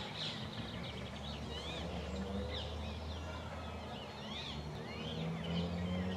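Birds calling: many short, high notes that rise and fall, some overlapping, repeated irregularly. A steady low hum lies underneath.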